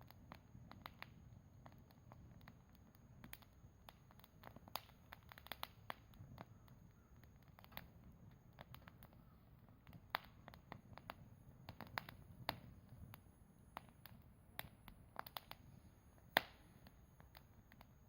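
Wood fire crackling, with irregular sharp pops and snaps, one louder pop near the end.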